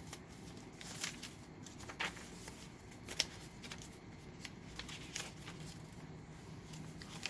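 Paper pages and card of a handmade journal rustling and flicking as they are turned and handled, in a string of short, scattered rustles.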